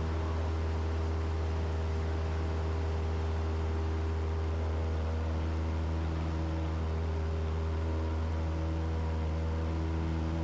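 Cessna 172's four-cylinder piston engine and propeller running steadily during the climb-out after takeoff, a constant drone with a strong low hum heard from inside the cabin.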